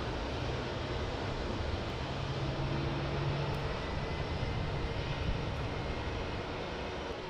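Airliner's jet engines running, a steady rumble that swells a little partway through.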